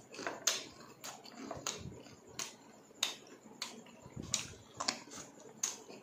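Close-up chewing of crispy deep-fried chicharon bulaklak (pork intestine): a sharp crunch roughly every half second to second.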